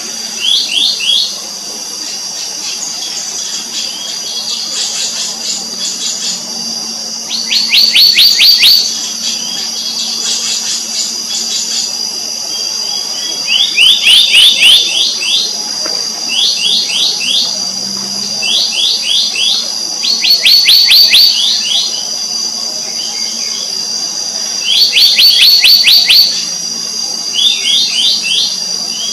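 Black-naped monarch calling in short, fast series of high notes, a burst every couple of seconds, over a steady high insect whine.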